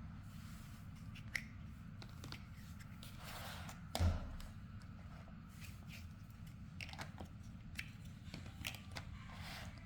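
Plastic building blocks clicking and clattering as pieces are handled and pressed together, with scattered light taps and one louder knock about four seconds in.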